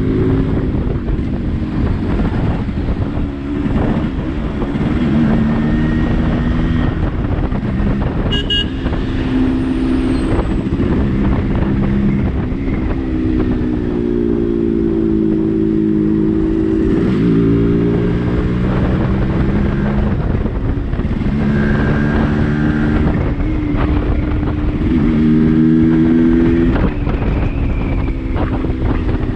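Yamaha RX135's single-cylinder two-stroke engine running on the move, its pitch climbing and then dropping several times as it accelerates and changes gear, over road and wind noise.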